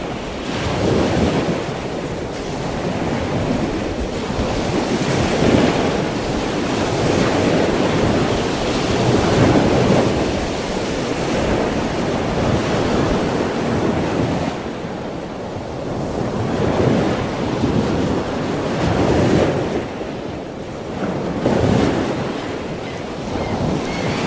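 Ocean surf: waves washing in and drawing back in a steady rush that swells and eases every few seconds.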